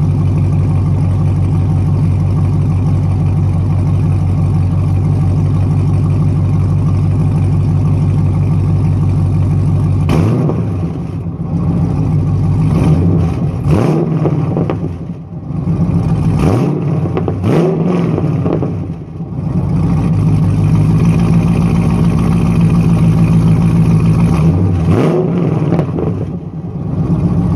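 2015 Camaro SS's 6.2-litre V8 running through Kooks long-tube headers, high-flow cats and an MBRP muffler delete: idling steadily, then revved in several quick blips that rise and fall, settling back to idle, with one more blip near the end.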